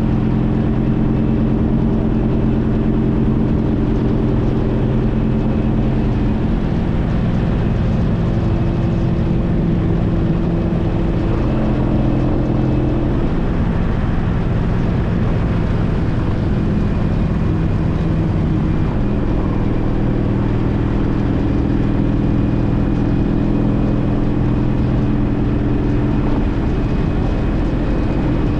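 Honda CTX1300's V4 engine running under way, mixed with steady wind and road noise. Its note changes a few times, dropping about six seconds in and shifting again around twelve and nineteen seconds, as speed or gears change.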